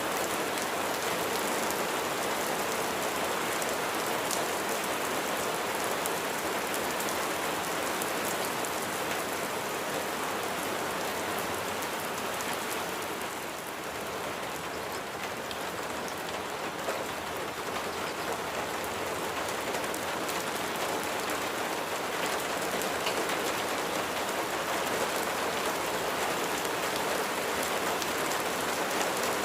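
Steady rain falling and pattering on a surface, with many fine drop ticks; it eases slightly about halfway through.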